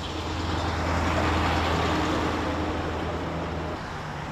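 Street traffic: a motor vehicle passing close by, its noise swelling about a second in and then easing off, over a steady low engine hum that cuts off shortly before the end.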